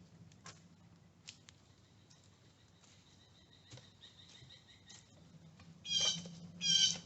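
A bird giving two loud, harsh squawking calls near the end, each about half a second long. Before that there are only faint scattered clicks and a faint high thin tone.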